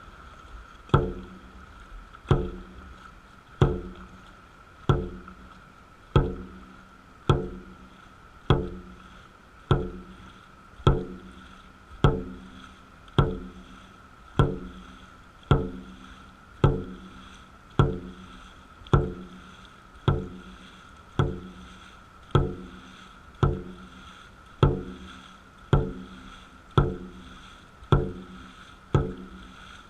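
Dragon boat drum beaten steadily, one stroke about every 1.2 seconds, each beat ringing briefly and fading. The beat sets the paddlers' stroke rate for a 50% long-reach piece.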